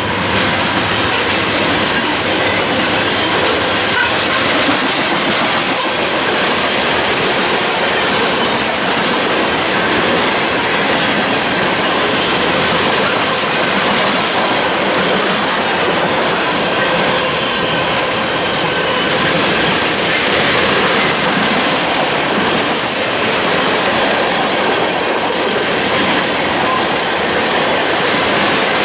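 Railroad cars rolling past on the rails: a steady, loud wheel-on-rail noise, with faint high wheel squeal coming and going.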